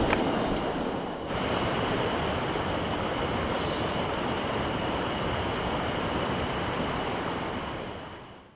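Steady rush of mountain stream water, with a faint steady high tone over it. The sound shifts slightly about a second in and fades out near the end.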